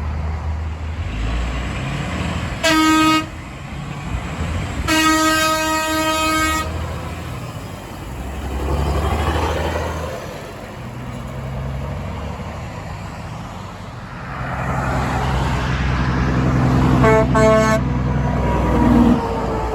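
Trucks passing with engines running while a truck horn sounds a short toot then a longer blast of about a second and a half. Near the end a horn gives two more quick toots.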